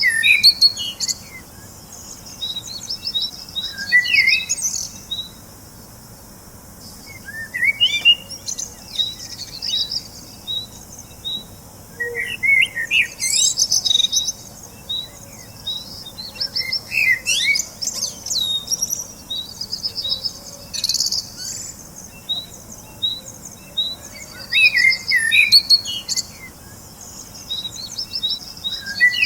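Birds chirping and singing in bursts every few seconds, with quick runs of short high notes and twittering trills.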